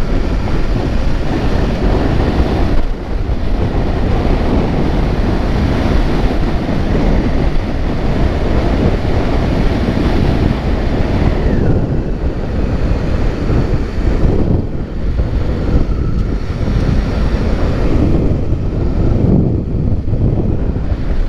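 Heavy wind rushing over the microphone of a moving camera, with vehicle running noise underneath.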